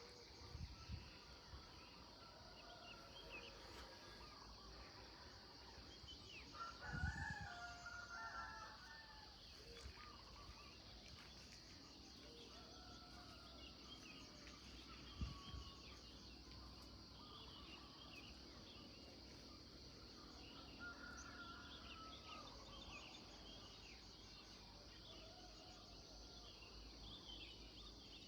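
Faint morning birdsong: small birds chirping over a steady high hiss, with a rooster crowing once about seven seconds in. A few brief low thumps.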